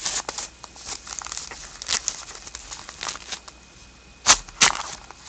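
Trading cards and a foil pack wrapper being handled: rustling and crinkling with quick card flicks, and two louder sharp snaps near the end.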